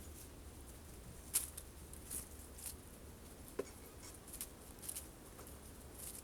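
Birds feeding at a sunflower-seed feeder: irregular light taps and clicks of pecking at the seeds, about seven over the few seconds, the sharpest about a second and a half in.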